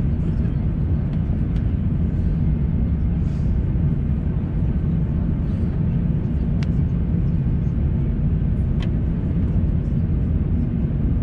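Steady low rumble in the passenger cabin of an Airbus A350-900 with its Rolls-Royce Trent XWB engines running on the ground, with two faint clicks past the middle.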